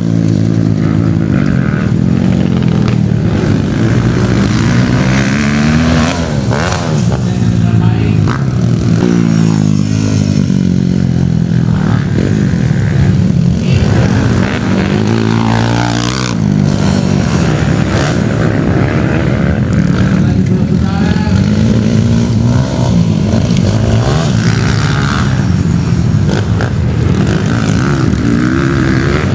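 Motocross bike engines running, their pitch rising and falling over and over as the throttle is opened and shut, with one sharp rise about sixteen seconds in.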